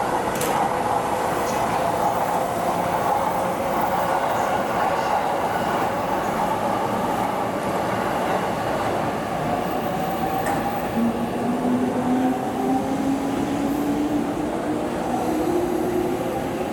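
An electric commuter train standing at a station platform, humming steadily, with heavy wind noise on the microphone. From about two-thirds of the way in, an electric motor whine rises steadily in pitch.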